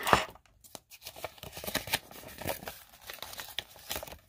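Surprise-toy packaging being torn open and crinkled by hand: a sharp crack at the start, then irregular tearing and rustling.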